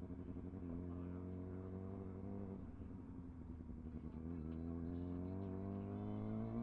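Sport motorcycle engine running at a steady cruise. Its note dips slightly partway through, then rises gradually as the bike accelerates in gear.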